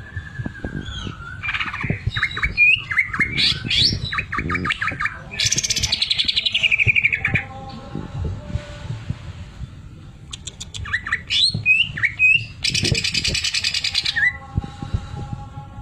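Greater green leafbird (cucak ijo) in full song: quick whistled slurs broken by two long runs of fast, even rattling notes, the 'sewing machine' imitation it is trained to sing.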